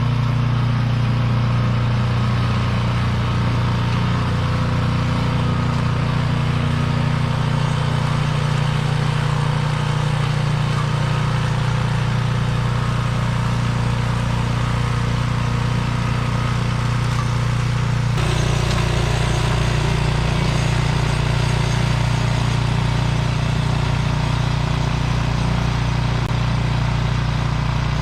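Walk-behind snowblower's small engine running steadily, clearing snow; its tone shifts about two-thirds of the way through.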